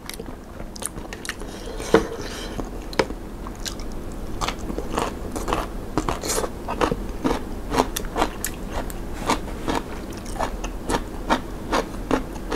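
Close crisp crunching as a person bites and chews raw Hong Kong kale stalks, a quick irregular run of crunches with two sharper bites about two and three seconds in.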